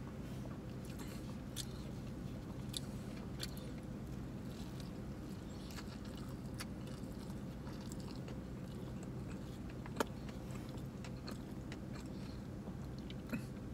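A person biting and chewing a cheeseburger, with faint scattered clicks and one sharper click about ten seconds in, over a steady low hum inside a car's cabin.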